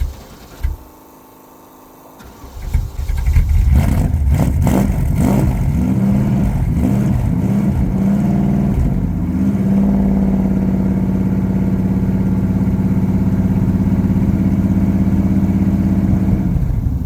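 Classic car engine cold-starting without a choke: it turns over after a short lull, catches about three seconds in and surges unevenly, then settles into a steady fast run from about nine seconds in, falling off just before the end.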